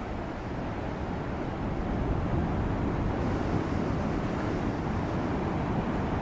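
Heavy storm surf breaking against rocks: a steady low roar of rushing water that grows louder about two seconds in.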